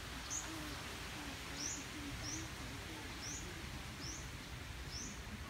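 A bird calling over and over with a short, high, rising chirp, about once every 0.7 s, over a steady outdoor hiss.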